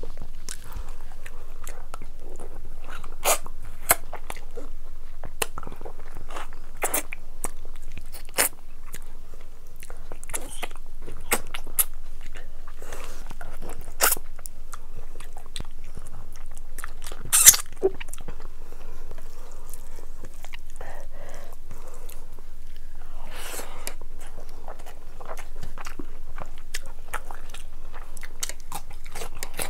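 Close-miked chewing and wet mouth sounds of rice and curry being eaten by hand, with frequent sharp lip smacks and clicks and one louder snap about two-thirds of the way through.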